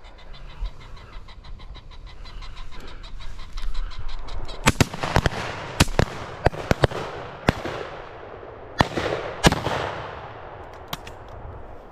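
Shotgun shots from several guns on a driven pheasant shoot: about a dozen sharp reports in a scattered volley starting about four seconds in, some close and loud, others fainter and farther off, each trailing off in an echo.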